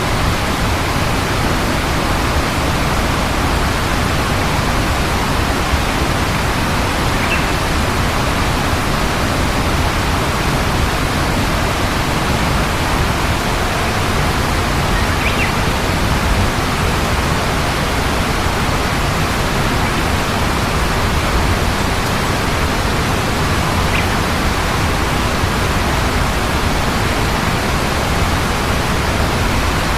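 Steady, loud rushing noise with no change, and a faint short high chirp three times, about every eight seconds.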